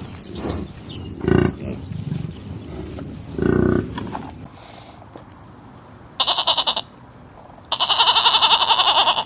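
A run of farm-animal calls: two short, lower calls in the first four seconds, then after a pause two loud, high calls with a fast quavering tremble, the second lasting about a second and a half.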